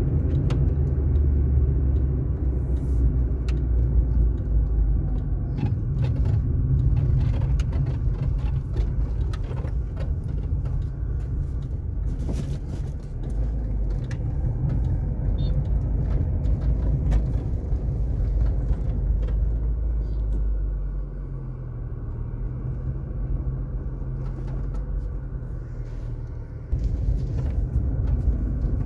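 Car driving on an asphalt road: a steady low rumble of tyres and engine, with scattered faint ticks and knocks. The rumble eases off about twenty seconds in and jumps back up suddenly near the end.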